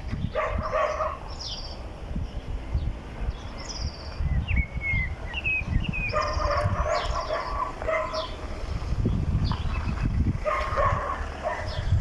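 A dog barking in three bouts, with small birds chirping and whistling between them.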